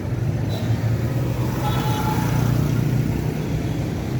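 Steady motor-vehicle engine and road noise, a continuous low hum that holds even throughout.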